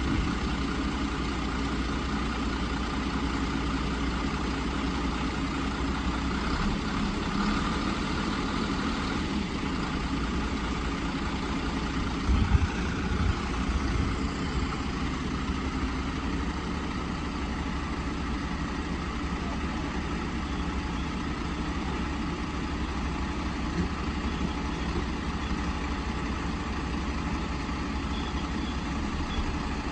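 Sinotruk HOWO dump truck's diesel engine idling steadily, with a few louder low thumps about twelve seconds in.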